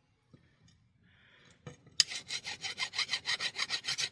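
Fast, even rasping or scraping strokes, several a second. They pause briefly, then start again sharply about two seconds in.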